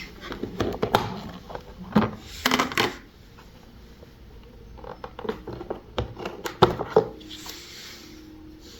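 Handling noises of hard plastic parts and packaging: scattered knocks and clicks with a couple of short stretches of rustling.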